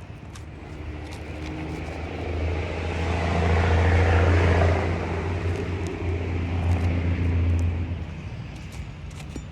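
A motor vehicle passing by, its low engine hum and tyre noise swelling to a peak about four seconds in and fading away by about eight seconds.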